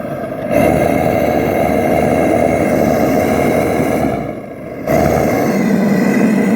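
Loud vehicle engine under load, dropping off for about half a second a little after four seconds in, then pulling hard again.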